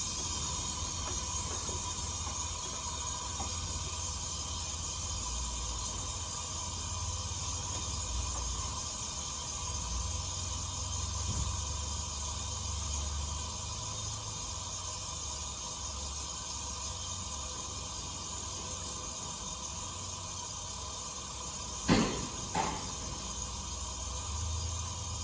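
A 2007 Chevrolet TrailBlazer engine running steadily, with a strong steady hiss over a low rumble, just after a thermostat replacement and coolant refill. Two short knocks come about 22 seconds in.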